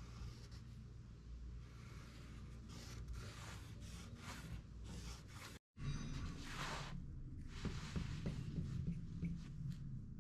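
A series of short scratching strokes, like a pen or scriber drawn across a surface, broken by a sudden brief gap about halfway through.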